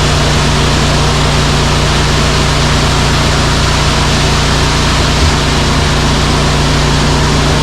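A heavy truck's diesel engine running at a steady speed under a loud, even rushing noise.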